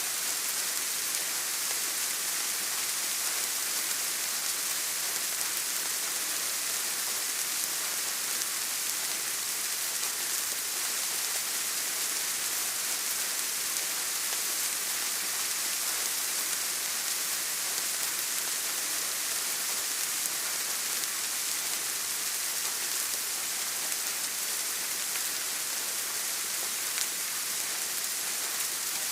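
Steady rain falling, an even hiss heavy in the high end with fine raindrop patter and no changes.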